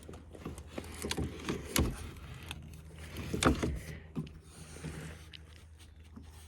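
Scattered knocks and clicks of a small fishing boat's fittings being handled, with two louder creaking knocks about two and three and a half seconds in.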